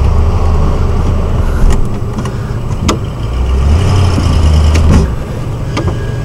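Car engine heard from inside the cabin, revving up and down in two surges while the vehicle is manoeuvred with the wheels cut. A few sharp knocks sound through it.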